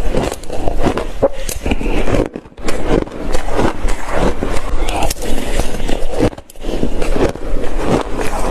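Close-up crunching of shaved ice being bitten and chewed, a fast irregular run of crisp crunches broken by two short pauses.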